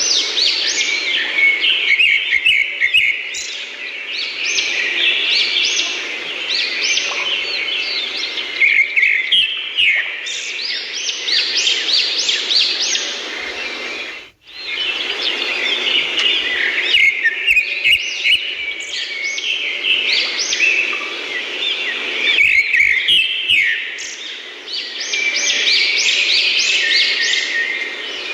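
A chorus of many birds chirping and twittering at once, over a steady low background hiss. It breaks off for an instant about halfway through.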